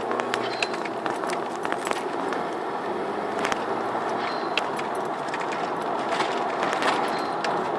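Mk4 Golf GTI's 1.8-litre turbocharged four-cylinder running with its N249 diverter-valve solenoid bypassed: a steady rushing sound dotted with many sharp, irregular ticks and clicks.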